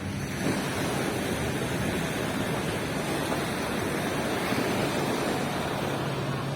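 Surf: a wave breaking and rushing up the beach, a dense wash of noise that swells about half a second in and eases near the end.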